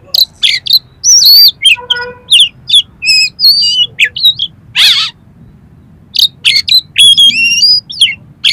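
Oriental magpie-robin (kacer) singing a loud, varied song: rapid whistled notes, slurs and chirps packed with harsh imitated 'kasar' fill notes, including a buzzy rasp about two seconds in.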